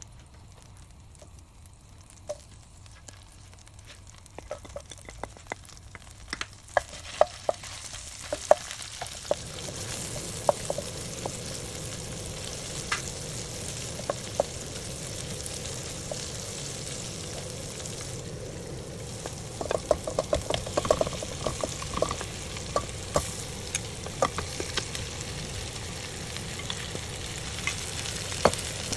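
Sliced garlic and ginger frying in butter and oil in a stainless steel pot, stirred with a wooden spoon that clicks and scrapes against the metal. The sizzle is faint at first and grows to a steady hiss about a third of the way in, with bursts of quick spoon taps.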